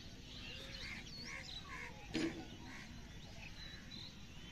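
Faint outdoor ambience of birds chirping and calling: many short repeated chirps and quick rising-and-falling notes. There is a single short knock about two seconds in.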